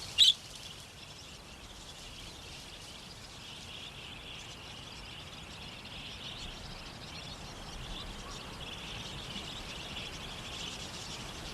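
Outback ambience: a steady, high-pitched insect chorus that swells slightly toward the end, with one short, loud bird chirp right at the start.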